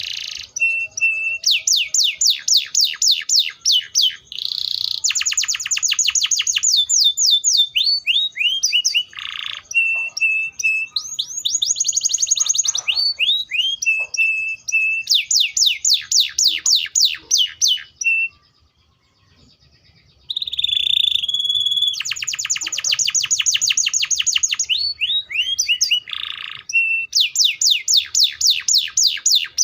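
Canary singing: fast trills of rapidly repeated falling notes, phrase after phrase, with short steady-pitched notes between them and a pause of about two seconds a little past the middle.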